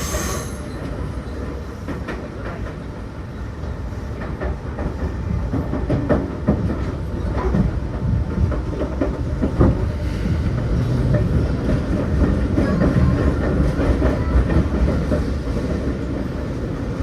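Seibu new 2000 series electric train heard from inside the car, running with a steady low rumble while its wheels click over rail joints and points. A high wheel squeal dies away in the first half second, and the running noise grows louder toward the middle.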